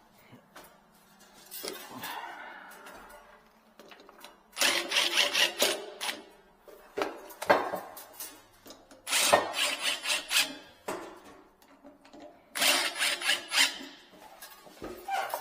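Tool work at a sink: four bursts of scraping and rubbing, each lasting up to about a second and a half, with scattered clicks and knocks between them.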